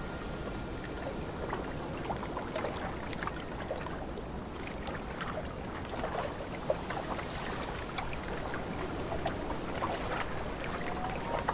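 Lake water lapping and splashing, with many small drips and ticks over a steady rush of wind.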